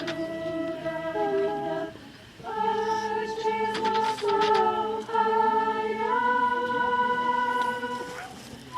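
A group of voices singing a slow song in long held notes, phrase after phrase.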